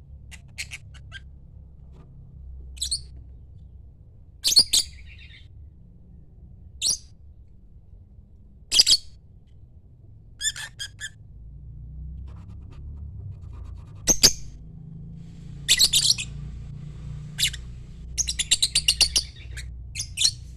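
A lovebird calling with short, shrill chirps and squawks at irregular intervals, then a quick run of chirps near the end.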